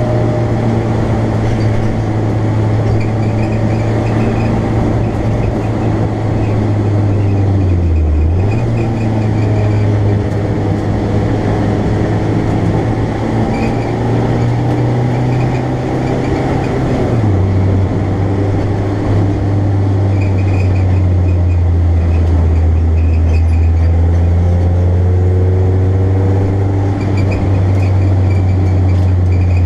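BMW Compact race car's engine heard from inside its stripped cabin, running steadily. The note dips sharply and picks up again about eight seconds in, then settles a little lower about halfway through.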